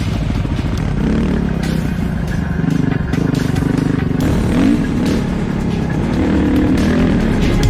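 Dirt bike engine running and being revved, its pitch rising and falling several times.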